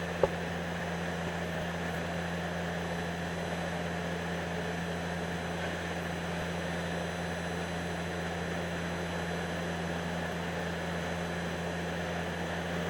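Diesel truck engine running steadily at low revs as the truck backs slowly, a constant low rumble that does not rise or fall.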